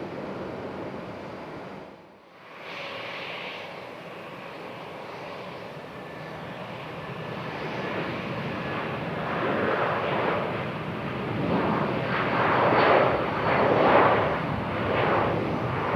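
Jet airliner's engines, a Boeing 757-300, running loud outdoors. After a short break about two seconds in, the noise grows and swells unevenly, loudest near the end, as the aircraft comes close.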